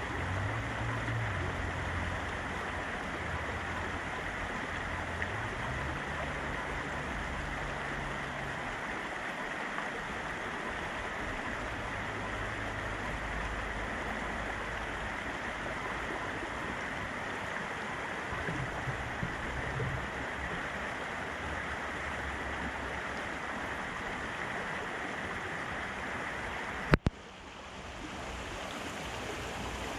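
Fast-flowing river rushing steadily. A single sharp click near the end is followed by a brief dip in the sound before it recovers.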